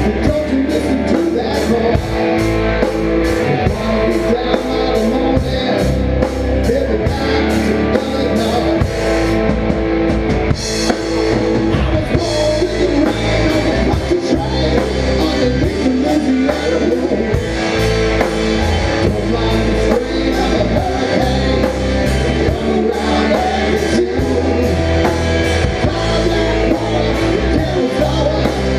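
Rock band playing an instrumental passage, with a drum kit keeping a steady beat under guitar.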